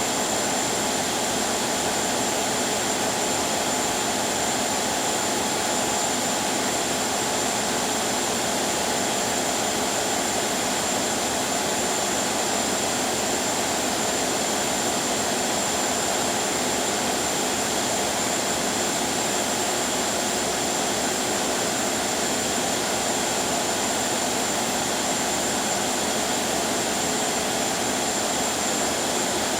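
Ship under way: a steady, unchanging drone of engine hum and rushing noise, with a thin high whine running through it.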